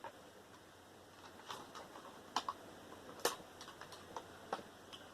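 Scattered light clicks and taps of small parts and a tool being handled while a desktop computer tower is taken apart, about a dozen in all, the sharpest about two and a half and three and a quarter seconds in.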